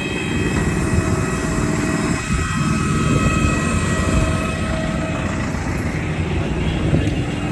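Steady low rumble of a running vehicle, with a faint steady whine above it.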